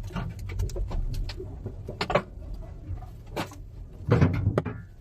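Storm wind buffeting the microphone as a low rumble, under a run of clattering knocks and bangs from loose objects being blown about. The loudest burst comes about four seconds in.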